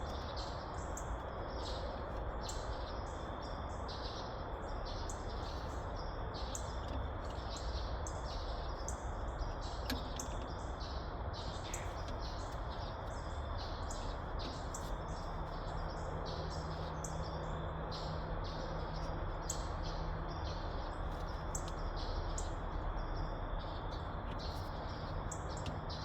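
Birds chirping in quick, repeated calls over a steady outdoor hiss and low rumble.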